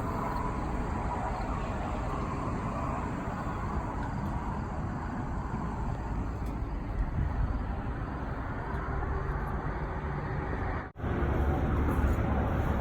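Steady road and engine noise of a moving car. It breaks off abruptly about eleven seconds in and resumes as a louder low rumble.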